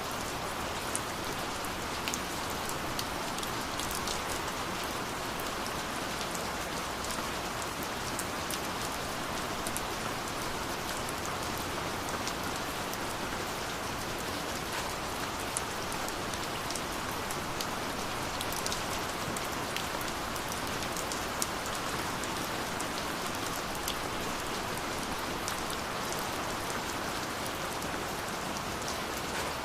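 Steady rainfall, an even hiss with scattered sharp drips and drop ticks.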